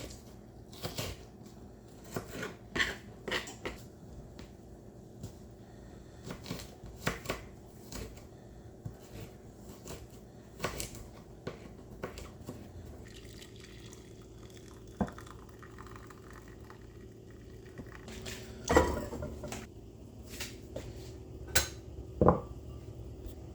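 Kitchen clatter: dishes, pans and utensils knocking and clinking at irregular intervals, with the loudest knocks near the end, over a steady low hum.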